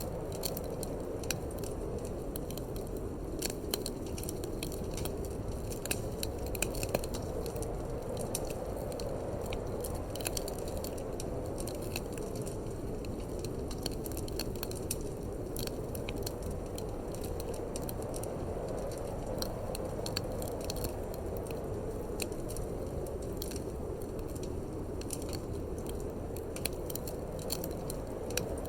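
Wood fire in a fireplace crackling and popping in many quick snaps, over a steady low rush of wind.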